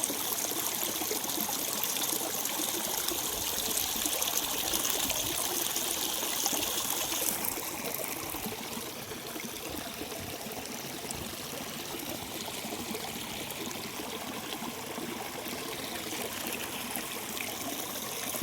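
Water of a small river flowing and trickling, a steady rushing hiss; about seven seconds in it turns a little softer.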